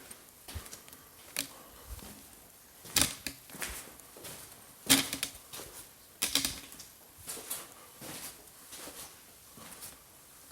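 A run of irregular clicks and taps, with a few louder knocks about 3, 5 and 6 seconds in.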